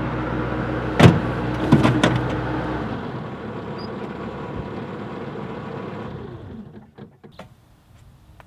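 Skid steer engine running steadily, with two sharp knocks about one and two seconds in. About three seconds in its low rumble drops away, and the engine sound fades out before the end, leaving only a few small clicks.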